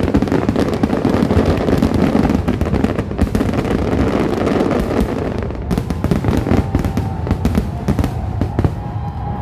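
Fireworks finale: a dense, continuous barrage of bursts and crackling over a deep rumble, thinning slightly in the last few seconds.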